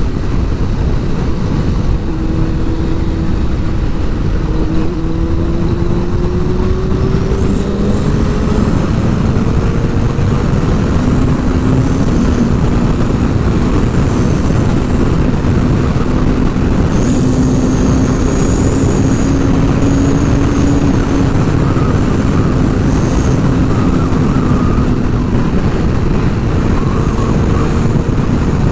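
Sport motorcycle under way: heavy wind rushing over the rider's microphone with the engine note underneath, climbing gradually over several seconds and then holding steady.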